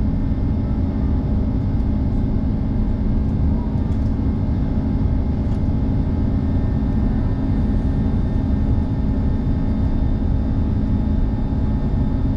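Steady cabin drone of an Airbus A330-300 airliner in flight: a constant low rumble of engines and airflow with a few steady hums over it.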